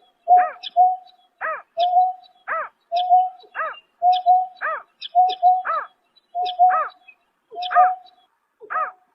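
Greater painted-snipe calling at night: a hooting call repeated about once a second, each call a short level note followed by a note that bends down and back up.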